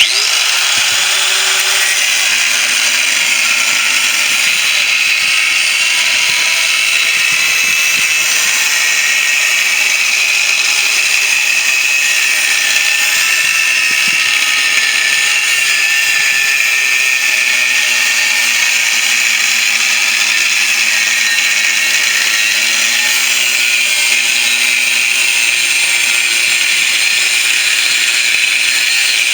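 Angle grinder with a cut-off disc running continuously as it cuts through the steel shell of a refrigerator compressor, starting abruptly; its high whine wavers slightly in pitch as the disc takes load.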